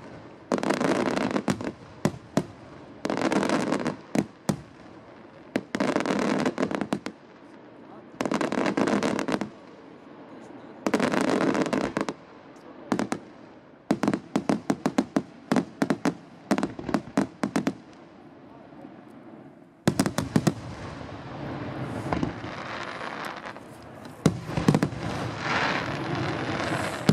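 Aerial fireworks display: shells bursting one after another with about a second of crackle each, a rapid run of sharp bangs midway, and a dense, continuous barrage of bursts in the last several seconds.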